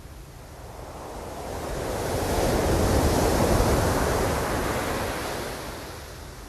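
Ocean surf: one wave's rush of water swells up over about two seconds, peaks mid-way, and dies away near the end, over a steady low rumble.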